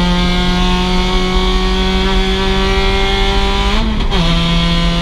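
Stock 2006 Mazda MX-5's four-cylinder engine running steadily under throttle, its pitch creeping up slowly. Just before the four-second mark it wavers and drops a little, then carries on steadily at the lower pitch.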